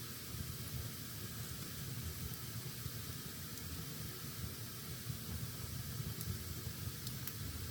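Fire burning in a fireplace: a steady hiss and low rumble of flames, with a few faint crackling pops, one more distinct near the end.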